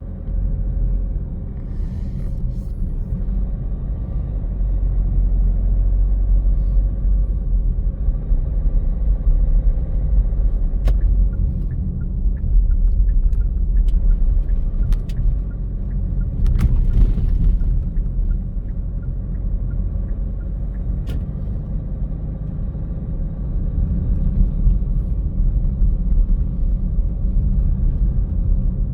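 Car driving slowly on city streets: steady low rumble of tyres and engine, with a few sharp ticks scattered through it.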